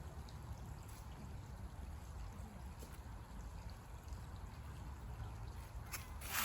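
Small stream flowing steadily, with a low rumble underneath and a couple of sharp clicks near the end.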